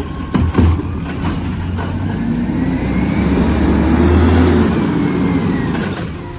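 Garbage truck engine running hard, its pitch rising over a few seconds and then falling again, with a couple of knocks near the start.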